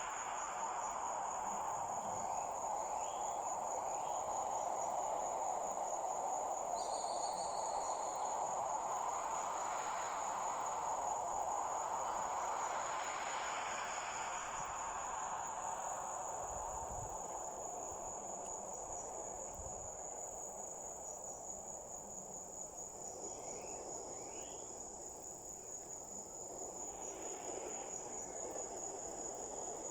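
Crickets trilling in one steady, high, finely pulsing tone over an even background hiss.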